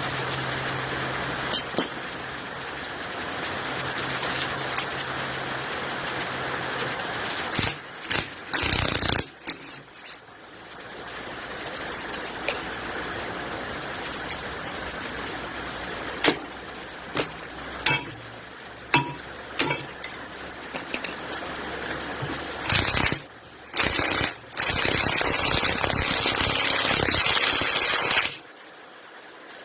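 Tools and metal engine parts clinking and knocking in scattered short strikes while a Lister SR3 engine is stripped down. There is a low hum over the first several seconds and two stretches of loud rushing noise, one briefly about eight seconds in and a longer one near the end.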